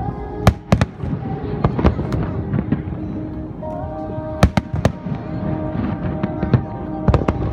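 Fireworks bursting in the sky with sharp, irregular bangs, several in quick clusters, over loud show music.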